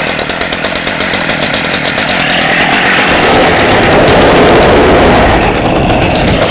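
Homelite ST175G two-stroke string trimmer engine running just after a cold start, getting louder as it revs up about three seconds in, then easing off slightly near the end.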